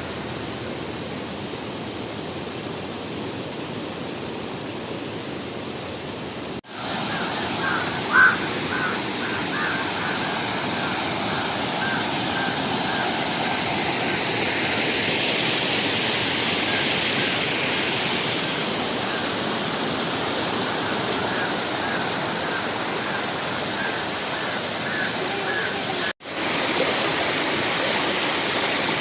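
Steady rush of flowing water from a stream and waterfall, with short, repeated bird calls over it through the middle. The sound cuts out briefly twice.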